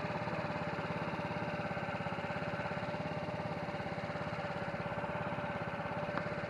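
Steady mechanical hum with a fast, even pulse underneath and a constant mid-pitched whine, like an idling engine or a running motor. A small click comes near the end.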